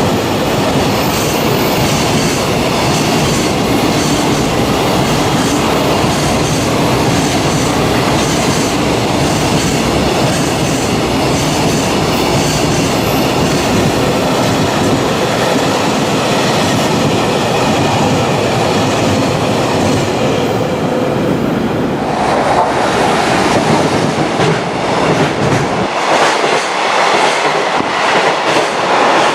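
Freight train passing at speed, its wagon wheels clicking regularly over the rail joints amid loud rolling rail noise. About three quarters of the way through, the sound changes and the deep rumble drops away.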